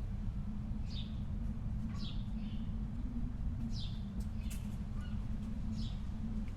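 Birds calling: about half a dozen short chirps, each falling in pitch, scattered over a steady low rumble.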